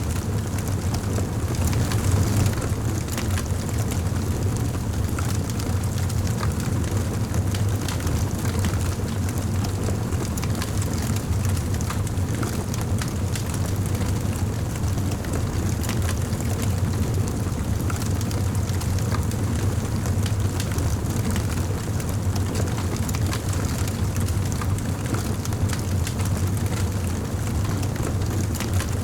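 Fire burning in a fireplace: a steady low rumble of flames with many small crackles and pops scattered throughout.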